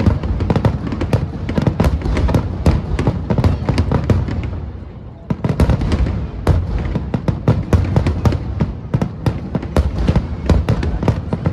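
Fireworks display at full barrage: shells bursting in rapid succession with booms and crackle. The bursts thin out briefly about five seconds in, then pick up again.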